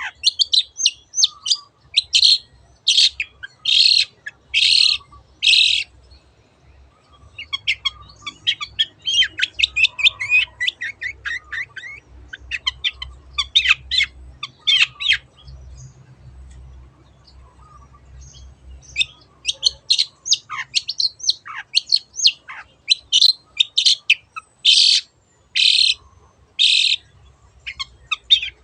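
Long-tailed shrike (cendet) singing: runs of fast, scratchy chattering broken by series of loud, harsh 'teot' notes about one a second, near the start and again near the end.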